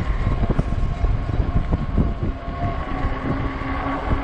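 Strong wind gusts buffeting the microphone while riding a fat-tire e-bike: a loud, uneven rumble, with faint steady tones underneath.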